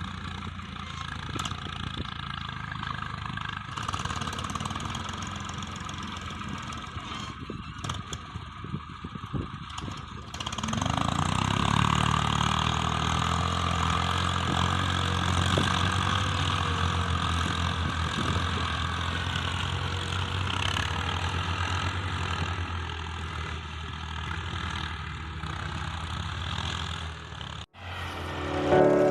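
Tractor engine running steadily, growing louder about ten seconds in.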